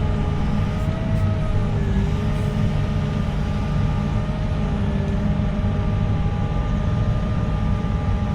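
Heavy earthmoving machine's engine running steadily under a deep rumble, with several whining tones above it that shift slightly in pitch.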